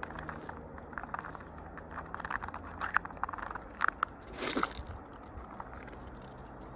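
Birds pecking at seed-and-insect feed: irregular quick beak taps and crunches, with a longer, louder scrape about four and a half seconds in.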